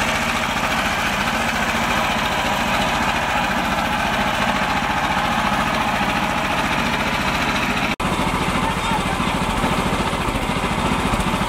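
Mini tractor engine running steadily with an even, rapid low pulse. It cuts out abruptly for an instant about eight seconds in, then carries on unchanged.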